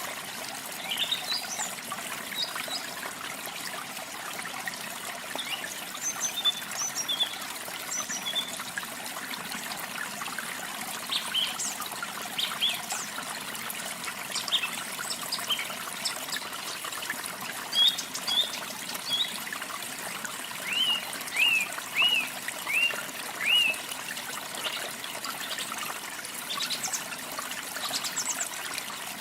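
Running water trickling and splashing steadily, with small birds chirping and singing over it throughout. About two-thirds of the way in, one bird repeats a short curved note five times in quick succession.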